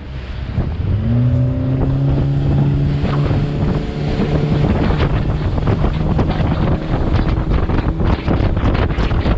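Boat motor throttling up, its pitch rising about a second in and then holding steady as the boat gets underway, with wind buffeting the microphone.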